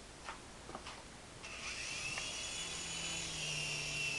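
Small electric RC helicopter's motor and rotor spinning up about a second and a half in, then running with a steady high whine and a lower buzz. A couple of faint clicks come before it starts.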